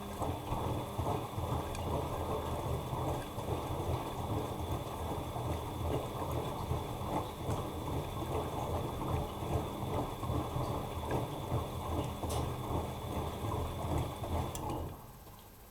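Bosch Maxx Advantage WFCX2440 front-loading washing machine tumbling its drum during the wash: laundry and water sloshing and splashing, with a faint steady motor whine. The drum stops turning near the end.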